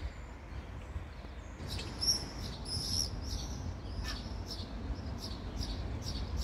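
A small bird chirping repeatedly, short high calls about twice a second, starting a couple of seconds in, over a low background rumble.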